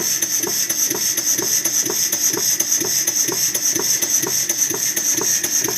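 A.J. Reeves Vulcan model beam steam engine running on 9 psi, its moving parts making an even clatter of clicks at about four to five a second over a steady hiss. It is running smoothly after being freed up with lubrication from a seized state.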